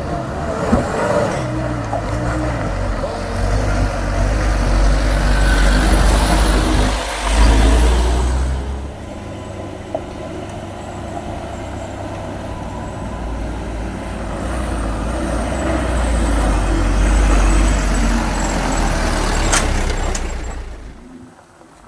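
Heavy diesel truck engine running under load, a deep steady rumble that swells twice as it climbs, with a short sharp hiss near the end.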